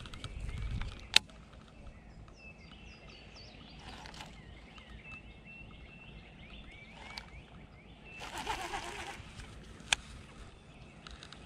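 Songbirds chirping in short, repeated high notes in the background. Two sharp clicks come through, one about a second in and one near the end, and a brief rush of noise comes just before the second click.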